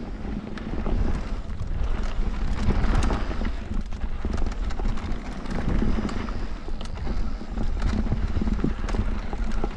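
Mountain bike riding fast down a rough bike-park trail: tyres rumbling over dirt and rocks, with irregular clattering and knocks from the bike.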